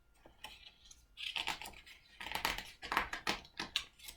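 Picture book being handled between pages: a short paper rustle about a second in, then a run of light, irregular clicks and taps.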